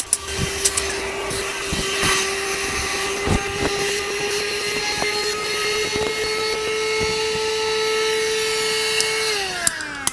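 Electric air pump running steadily with a motor whine, then switched off about nine seconds in and winding down with falling pitch, with scattered knocks and clicks over it.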